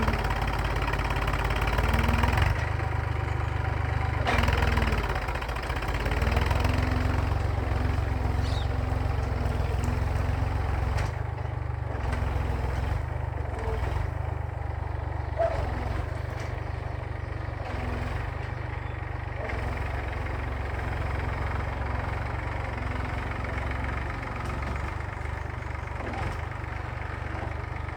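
Massey Ferguson tractor's diesel engine running steadily while pulling a plough. The sound swells a few times in the first six seconds, then settles a little lower.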